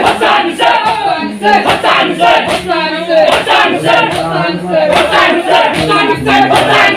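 A crowd of male mourners chanting and singing together in a loud, rhythmic lament, over a regular beat of sharp slaps, typical of matam chest-beating to a Muharram noha.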